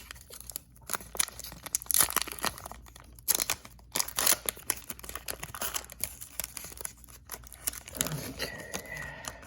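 Foil wrapper of a Pokémon card booster pack being torn open and crinkled, a dense run of irregular rips and crackles.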